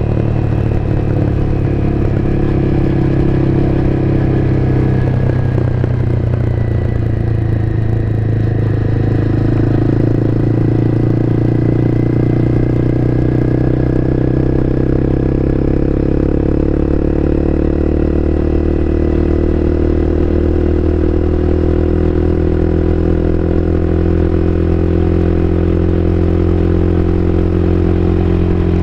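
Honda CBR250R's single-cylinder engine heard from on board, running under steady throttle, its pitch rising slowly and evenly through the middle of the ride.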